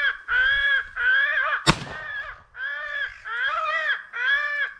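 Crows cawing over and over, about two harsh caws a second. A single loud gunshot cracks about a second and a half in.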